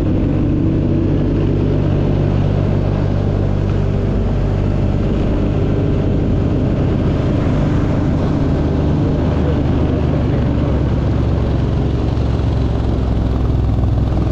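A vehicle's engine running steadily with a low hum, its pitch shifting slightly about halfway through.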